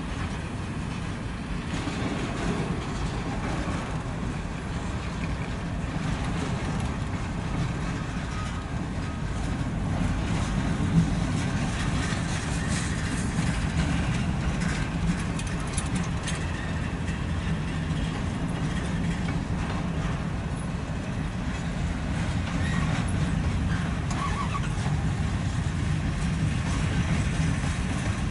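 CSX manifest freight train's cars rolling past: a steady low rumble of steel wheels on rail, with one sharp knock about eleven seconds in.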